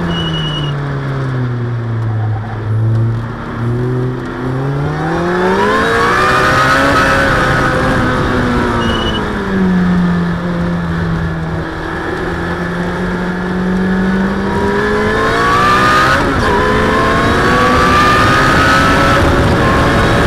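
Supercharged Ariel Atom's four-cylinder engine heard from the open cockpit at speed. The revs fall low in the first few seconds, rise again, hold steady for a few seconds, then climb hard with a quick upshift about 16 seconds in, over steady wind and road noise.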